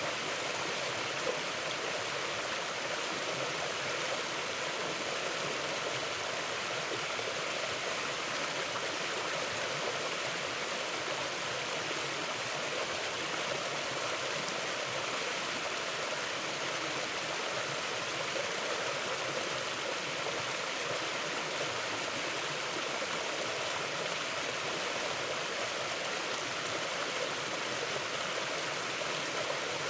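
Mountain river flowing, a steady, even rush of water with no change in level and no other sound standing out.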